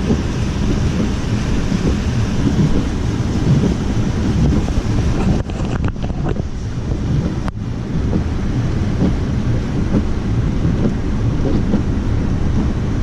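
Wind buffeting the microphone in a storm, a loud, steady, low rumble, with two brief dips about five and a half and seven and a half seconds in.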